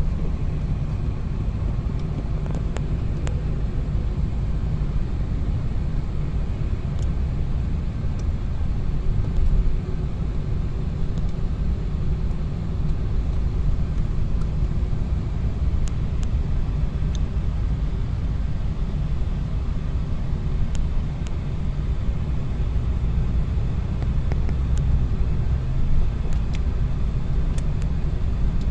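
A car driving along the road, its engine and tyres giving a steady low rumble with a few faint ticks.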